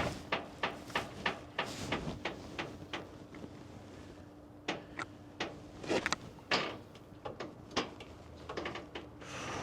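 A series of irregular light clicks and knocks, typical of hand tools and metal parts being handled, over a faint steady hum.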